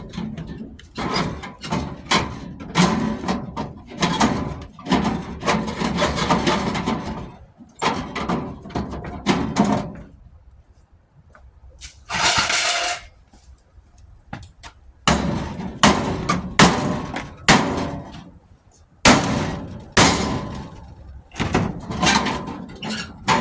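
Irregular metallic clanking, knocking and rattling of tools and sheet-metal furnace parts as a stubborn gas valve block is worked loose from an old furnace, with a brief scrape about halfway through.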